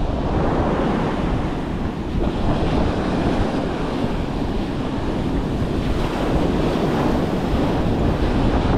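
Strong wind buffeting the microphone in a steady, rumbling roar, with surf breaking on the beach beneath it.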